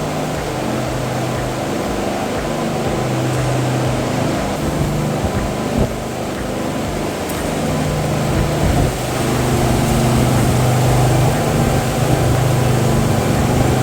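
A construction machine engine running steadily at a concrete pour, a low hum that swells and eases, growing louder after about eight seconds.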